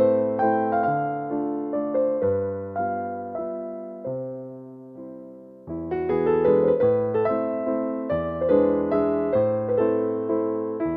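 Soft piano music: a gentle melody over bass notes, thinning out about halfway through and then coming back fuller.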